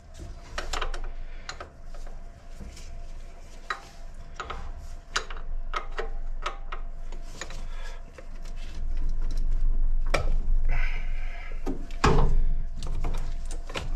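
Hand tools and metal engine parts clicking, knocking and scraping in an irregular string of short knocks, with a brief scraping ring about ten seconds in, as fittings are worked loose on a car engine.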